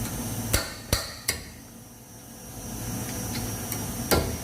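Sharp metal knocks: three in quick succession about a second in, then a fourth near the end, from work on a loose pin in a car's suspension.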